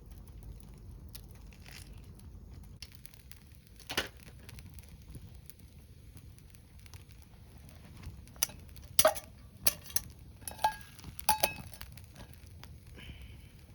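Scattered clinks and knocks of tableware and cooking utensils, one about four seconds in and a cluster in the second half, a few ringing briefly.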